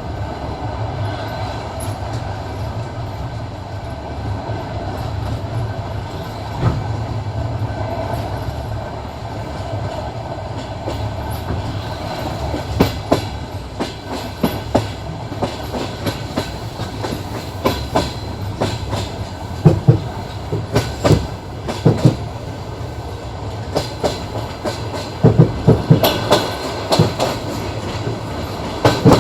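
Passenger train wheels running over the rail joints: a steady rumble, and from about halfway on, clusters of sharp clickety-clack knocks.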